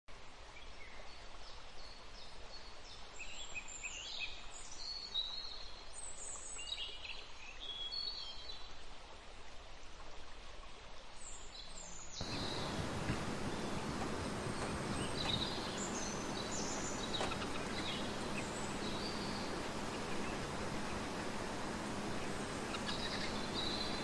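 Small birds chirping outdoors in short, high, quick calls, many of them in the first half. About halfway through the background abruptly becomes a louder steady noise, and fewer, fainter chirps come through it.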